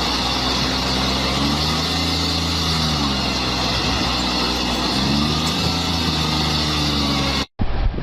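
A motor vehicle's engine running under a steady rush of road and wind noise, its low note rising and falling twice. It cuts off abruptly near the end.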